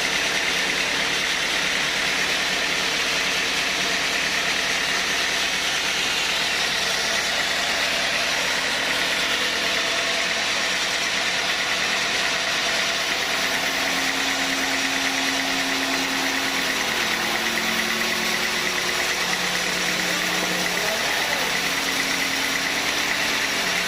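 Sawmill machinery running steadily, a continuous even mechanical noise with no break or change in loudness.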